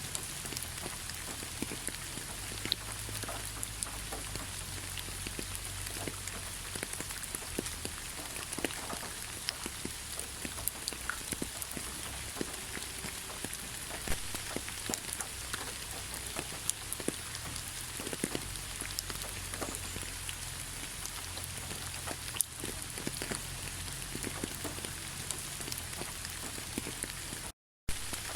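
Heavy rain falling steadily: a dense, even hiss with many sharp individual drop hits scattered through it. Near the end the sound cuts out completely for a fraction of a second, then resumes.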